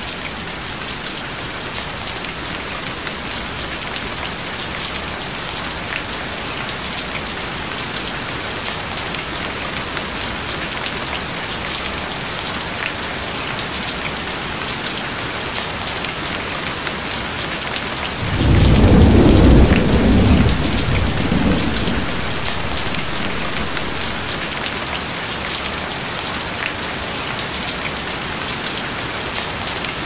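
Steady rain falling. About two-thirds of the way through, a single low rumble of thunder rises suddenly, is loudest for about two seconds, then fades over the next few.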